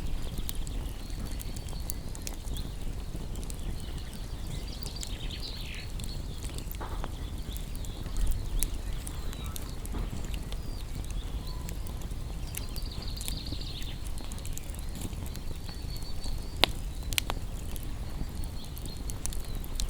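Wood fire burning: a steady low rumble with scattered sharp crackles and pops, two louder pops about three-quarters of the way through.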